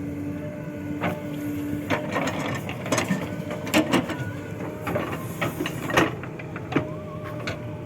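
JCB 3DX backhoe loader working, its diesel engine running with a steady hum. From about two seconds in, a run of sharp metallic clanks and knocks as the bucket and arm work. The steady tone comes back near the end.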